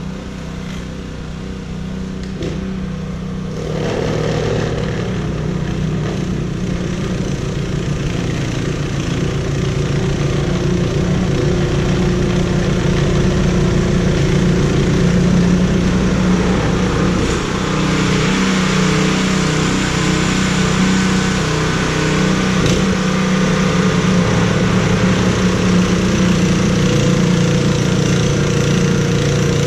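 An engine running steadily. A hissing noise joins it a little past halfway and keeps on.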